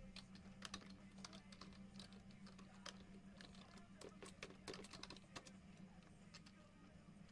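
Faint, irregular clicking and tapping, a few clicks a second, over a steady low hum.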